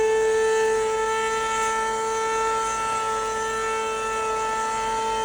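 Motorcycle engine held at high, steady revs during a burnout, one unbroken high-pitched note.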